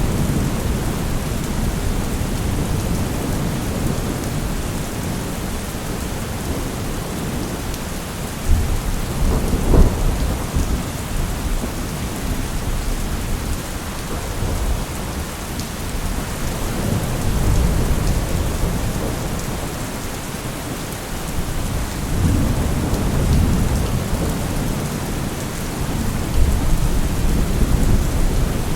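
Steady rain falling, an even dense hiss. Low, deep rumbles swell and fade several times, the strongest about ten seconds in.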